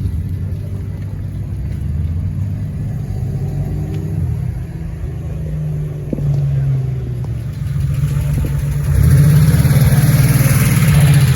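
Car engine and exhaust running close by, its pitch rising as it revs, then getting louder from about eight seconds in and loudest near the end as it accelerates.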